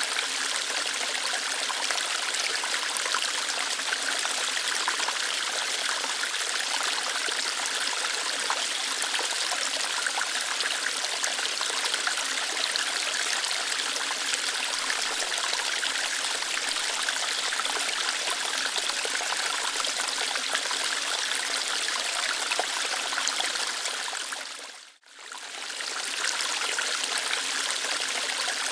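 Small waterfall, water flowing lightly over rocks in a steady rush. About 25 seconds in it fades out almost to nothing and swells back within a couple of seconds.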